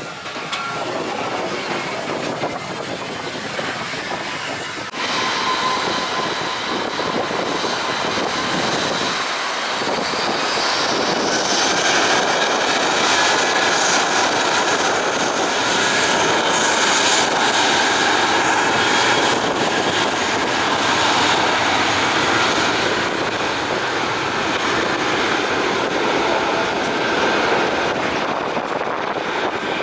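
Airbus A320 jet engines at takeoff power: a loud, steady jet noise with whining tones through it. It gets louder about five seconds in, and a high whine rises from about ten seconds in.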